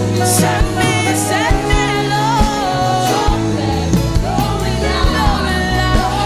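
Live gospel worship music: a band with a steady drum beat and sustained bass and chords, under sung vocals.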